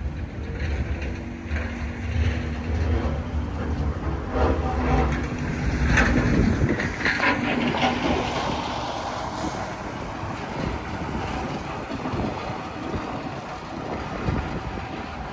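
A heavy vehicle's engine running with a steady low drone, with rough street and wind noise in the middle and latter part.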